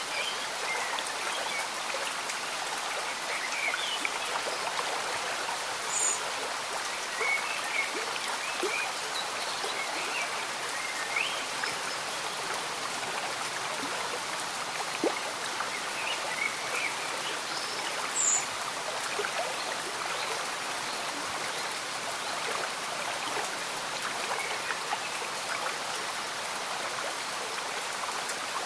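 Gentle stream bubbling and trickling with steady light rain falling, an even wash of water sound. Twice, a short high chirp rises above it.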